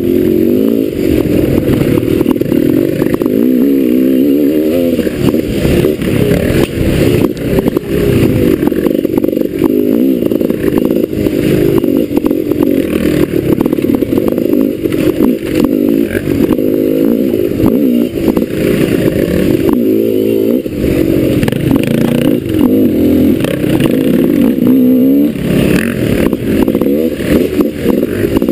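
Dirt bike engine revving up and down continuously as it is ridden on single-track trail, with frequent clatter and knocks over rough ground.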